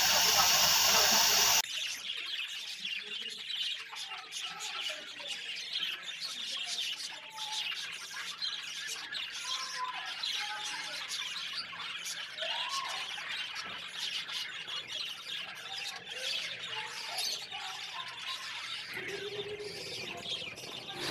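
Potatoes frying in oil in a karahi, sizzling loudly for about the first second and a half before cutting off. Then a quieter bed of fine crackling with short chirping bird calls.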